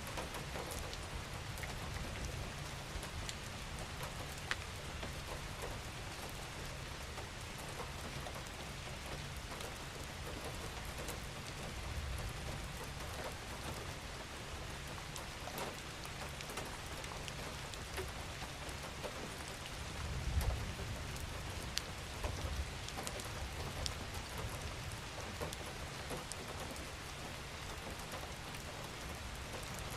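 Gentle rain falling steadily, with single drops ticking sharply here and there over a low rumble that swells briefly about two-thirds of the way through.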